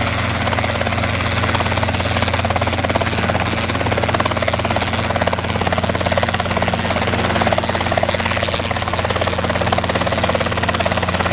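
Robinson R22 helicopter running on the ground before lift-off: a steady engine and rotor drone with a low hum and rushing noise, heard from close by.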